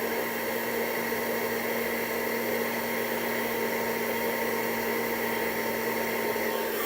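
Hair dryer running steadily on its low-speed, low-heat setting: an even whooshing hiss with a steady motor hum under it.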